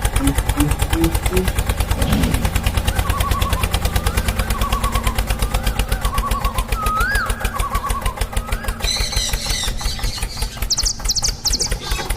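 Tractor engine sound chugging at a steady, rapid beat of about eight pulses a second, with short high chirps recurring every second or so and a quick run of higher chirps near the end.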